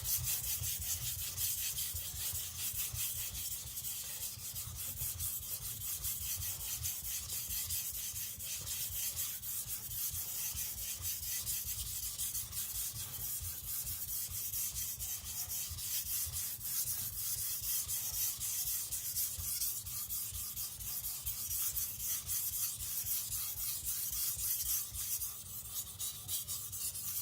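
A Japanese nakiri's white-steel (shirogami) blade being stroked back and forth over a wet Naniwa Professional whetstone in a steady, unbroken run of quick rasping strokes, as the edge is worked further to raise a burr.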